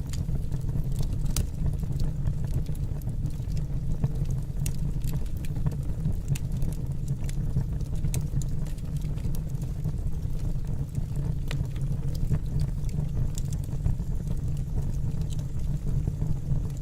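Fire burning in a fireplace: a steady low rumble with frequent sharp crackles and pops at irregular intervals.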